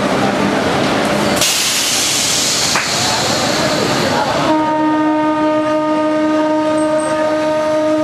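Train running through a station, then a loud hiss about a second and a half in, then a locomotive horn sounding steadily from about halfway through, held to the end.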